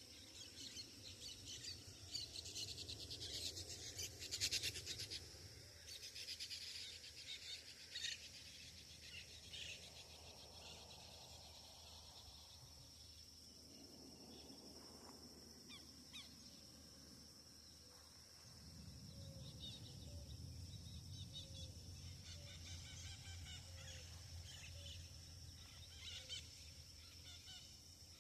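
Birds calling by a river, loudest in a few rapid, rattling bursts in the first eight seconds, over a steady high insect drone. A low steady noise comes in about two-thirds of the way through.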